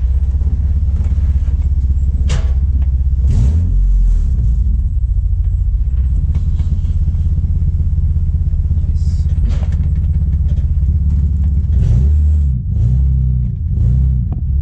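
Swapped turbocharged Toyota 1JZ VVTi straight-six in a Nissan 350Z, heard from inside the cabin while the car is driven slowly: a steady, loud low engine drone. Near the end the engine note rises and falls a few times. A few sharp clicks or knocks sound over it.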